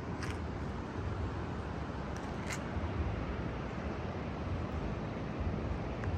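Steady outdoor background noise with a low, fluctuating rumble, and two faint clicks, one just after the start and one about two and a half seconds in.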